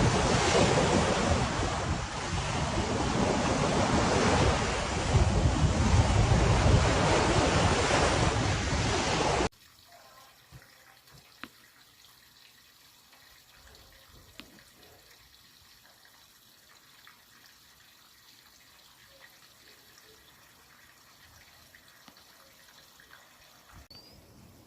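Loud, steady storm noise, a rushing haze of rain and wind, which cuts off abruptly about nine seconds in. After that only a faint quiet background with a few soft ticks remains.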